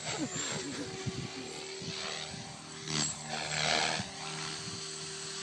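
Logo 400SE electric RC helicopter flying, its rotor and motor making a steady humming whine that swells about three seconds in.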